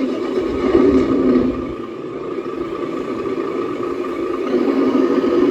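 Radio-controlled scale model vehicle running, a steady mechanical whir with a fixed pitch that grows a little louder toward the end.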